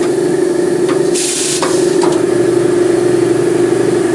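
Pneumatic tire changer in operation: a steady machine hum, with a short burst of compressed-air hiss about a second in and a few sharp clicks.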